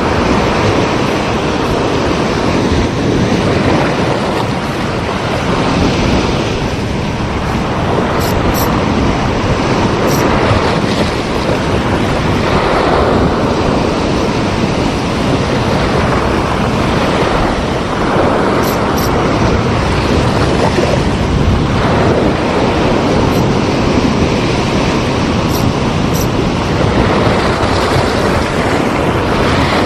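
Sea waves washing against the shore, a steady rushing noise that swells and eases, with wind buffeting the microphone.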